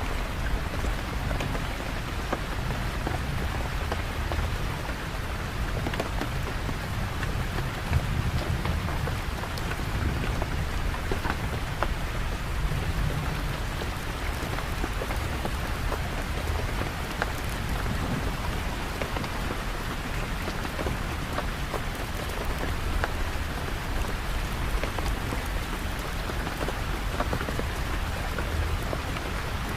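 Steady rain falling, with scattered sharp drop taps over a continuous low rumble.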